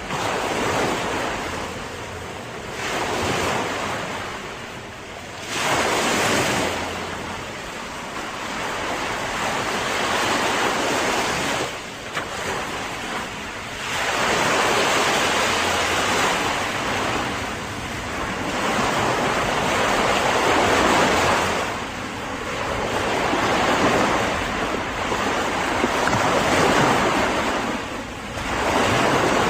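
Ocean surf: waves breaking and washing in, the rush of water swelling and falling away every few seconds.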